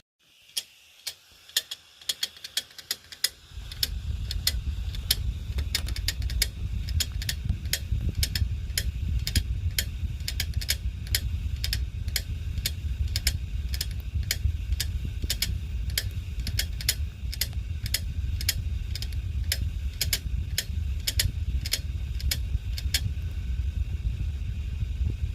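Hard disk drive making an abnormal noise: a few sharp clicks, then its motor starts a steady low hum while the clicking goes on at two or three clicks a second, stopping shortly before the end.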